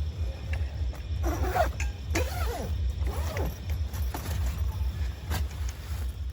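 Three short rising-and-falling animal calls over a steady low rumble.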